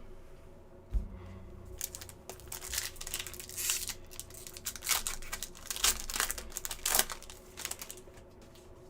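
Foil wrapper of a hockey card pack crinkling and tearing as it is ripped open, in a long run of irregular crackles, with a knock about a second in.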